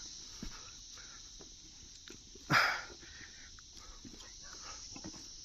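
Footsteps along a trail under a steady high-pitched insect drone, with one short loud sound about halfway through.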